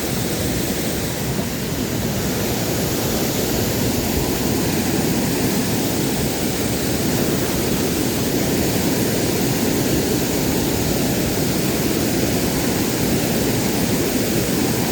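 Steady rush of a waterfall's strong current, an even roar of water that holds level throughout.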